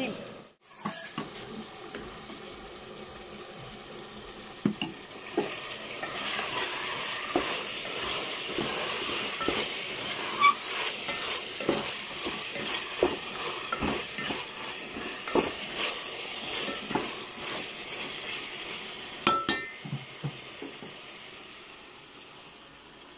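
Chicken masala sizzling in a metal pot while a spatula stirs it, with repeated short knocks and scrapes of the spatula against the pot. The sizzle grows louder a few seconds in and fades toward the end.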